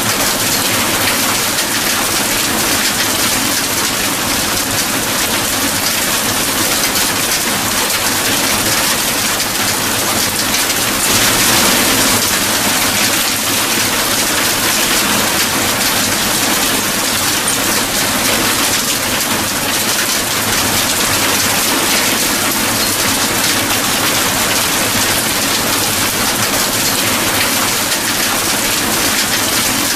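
Steady heavy rainfall, an even hiss of rain landing on surfaces, swelling slightly about a third of the way through.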